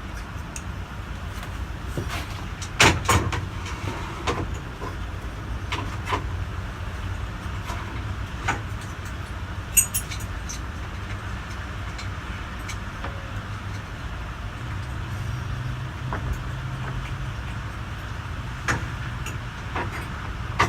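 Scattered knocks and clicks of a part being taken off a ceiling fan by hand, loudest in a cluster about three seconds in, over a steady low hum.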